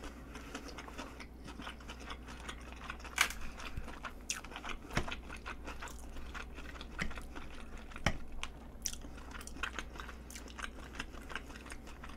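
Close-miked chewing and mouth sounds of someone eating pollock roe pasta: irregular soft wet clicks and smacks, with a few sharper clicks.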